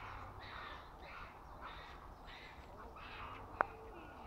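Birds calling repeatedly in the trees, short calls about every half second to a second, with a single sharp click about three and a half seconds in.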